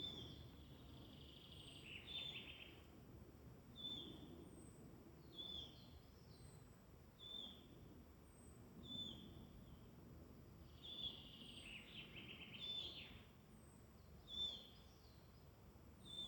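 Woodland birdsong, faint: one bird repeats a short high note roughly every second and a half, and another sings a brief trilled phrase twice, over a soft low background hum of the forest.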